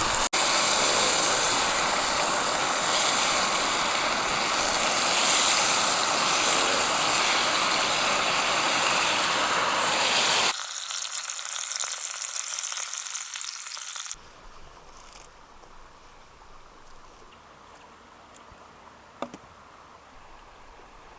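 Thick beef steaks sizzling in beef tallow in a pan, a loud steady sizzle. About ten seconds in it cuts off abruptly to a much quieter outdoor background, with one sharp click near the end.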